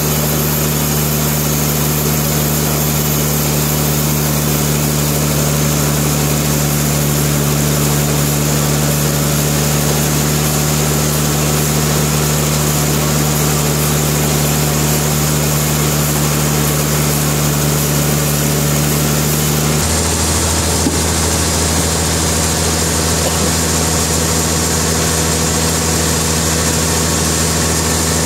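Sawmill machinery running steadily with a loud, constant hum. About twenty seconds in, its tone changes abruptly and the hum drops lower.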